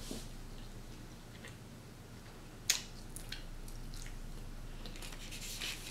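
A person chewing a mouthful of burger with the mouth open and licking fingers: wet smacks and clicks over a faint hum. One sharp smack comes near the middle, a few softer ones follow, and a quick run of them comes near the end.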